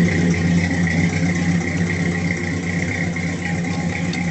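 A 1970 Chrysler New Yorker's 440 cubic-inch V8 idling steadily, an engine the owner says has an exhaust leak.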